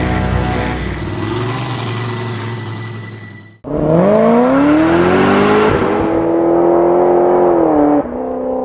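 Truck engines revving in quick edited cuts. One engine fades away, then after a sudden cut another revs up steeply in pitch and holds high before cutting off abruptly near the end.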